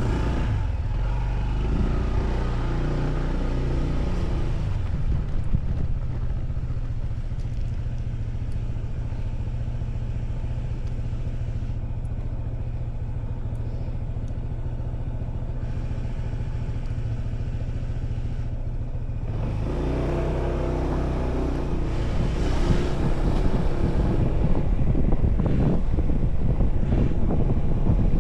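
Motorcycle engine running during a ride, a steady low drone that picks up again about two-thirds of the way through. Wind buffeting the microphone grows louder in the last few seconds.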